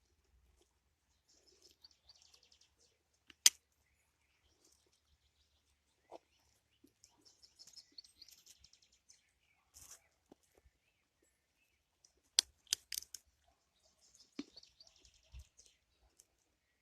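Small songbirds singing in quick, high trills in three spells, broken by a few sharp clicks: one loud click about three and a half seconds in and a short cluster of them about three-quarters of the way through.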